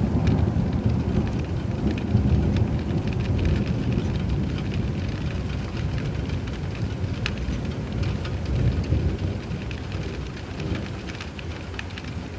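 Steady rain with a low rumble of thunder that swells at the start and fades away toward the end, with the patter of drops heard over it throughout.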